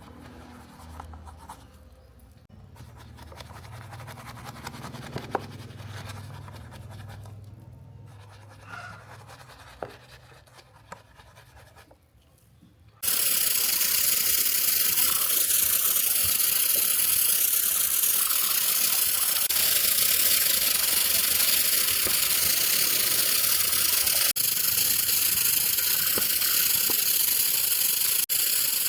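Quiet brushing and scratching with small clicks as a model car is cleaned. About halfway through, a loud steady hiss starts suddenly and keeps on.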